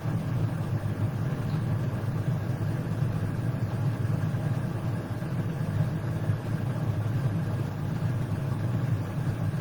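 Steady low rumble with a faint even hum, unchanging throughout, with no speech.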